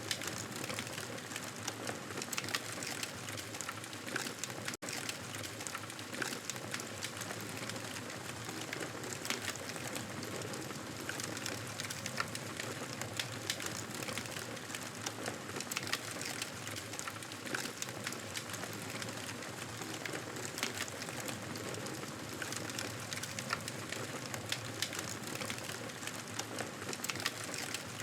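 Campfire burning: wood crackling and popping irregularly over a steady soft hiss.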